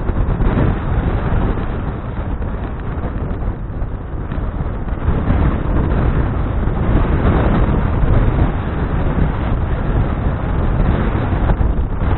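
Wind buffeting an action camera's microphone on a moving bicycle: a loud, steady low rush of noise.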